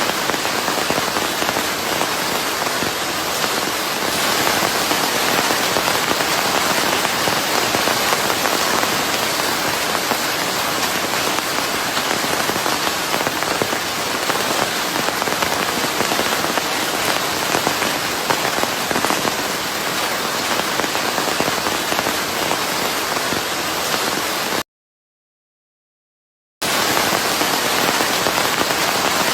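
Steady, dense rainfall blended with white noise. It cuts out to complete silence for about two seconds near the end, then resumes.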